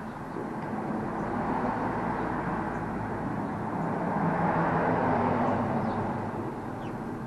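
A vehicle passing by: a steady rushing noise that swells to a peak about five seconds in and then fades.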